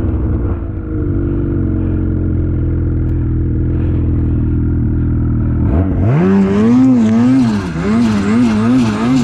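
Lynx Shredder RE snowmobile engine running at a steady idle, then revved up and down several times from about six seconds in.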